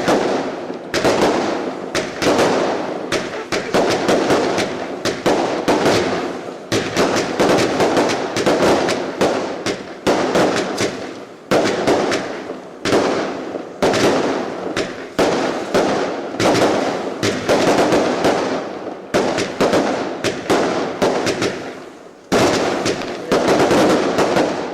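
Fireworks going off in a long, rapid string of bangs and crackles. The bangs come in dense runs with short breaks between them.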